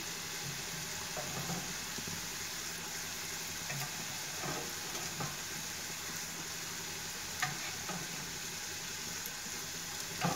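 Diced potatoes and ginger-garlic paste sizzling steadily in hot oil in a pan, with a few light clicks now and then.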